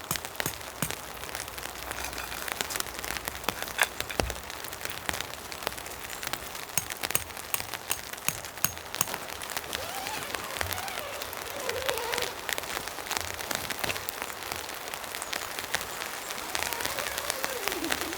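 Steady rain falling, with many sharp raindrop ticks over an even hiss.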